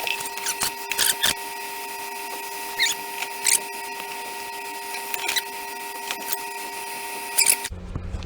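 Hot-air SMD rework station running with a steady whine, with scattered short clicks and scrapes over it. Near the end the whine cuts off suddenly and a low hum takes over.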